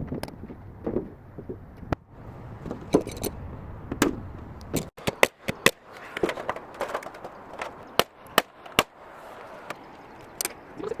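Sheet metal being worked by hand for a chimney flashing: irregular sharp clicks and knocks as the sheet is handled, folded and tapped.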